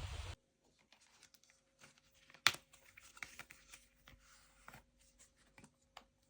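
Loud rustling noise cutting off abruptly just after the start, then faint scattered handling sounds: light clicks and rustles, with one sharper click about two and a half seconds in.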